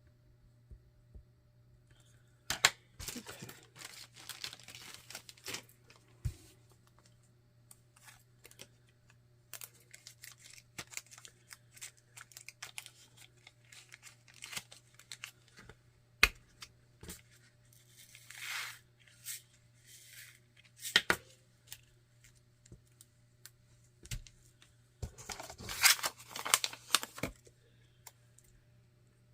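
Small plastic bags of diamond-painting drills being handled and sorted: crinkling and rustling in irregular bursts, with sharp clicks and taps between them. The loudest bursts come near the end. A steady low hum runs underneath.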